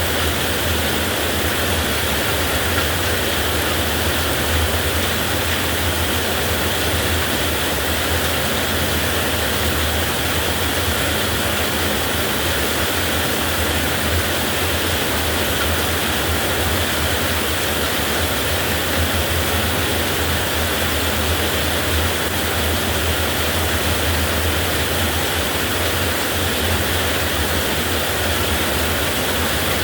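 Heavy rain falling steadily, a constant even hiss with a low rumble underneath and no thunderclaps.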